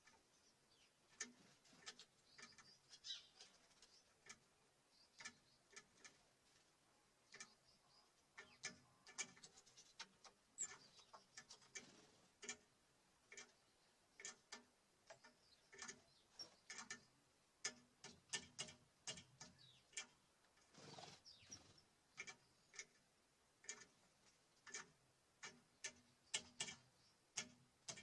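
Birds pecking at a bird feeder: faint, irregular sharp taps, one to three a second, with a short high chirp about ten seconds in.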